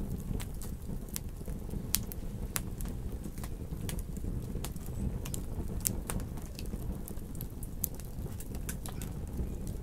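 Wood fire in a fireplace crackling, with irregular sharp pops and snaps, several a second at times, over a steady low rumble of the flames.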